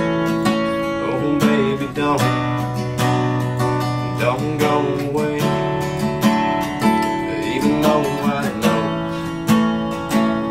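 Acoustic guitar strummed in a steady rhythm, playing the song's instrumental outro.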